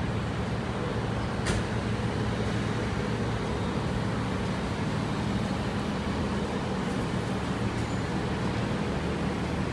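City avenue traffic: a steady wash of passing vehicles with a low engine hum, and a sharp click about a second and a half in.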